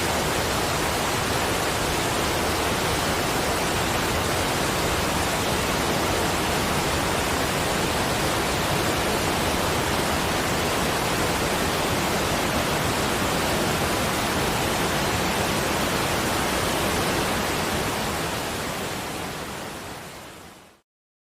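Steady rushing water noise from a relaxation soundscape, even and unbroken, fading out over the last few seconds into silence.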